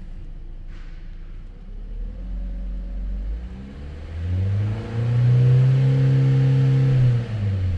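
2023 Hyundai Tucson's 2.0-litre four-cylinder petrol engine being revved from idle: the pitch climbs in steps from about two seconds in, holds high for about two seconds, then drops back toward idle near the end.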